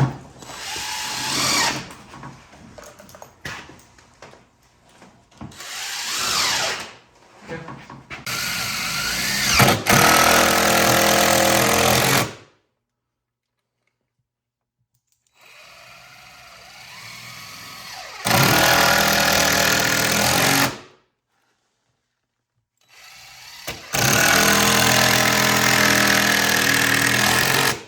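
Power drill running in three bursts of a few seconds each, with quieter handling noises before the first.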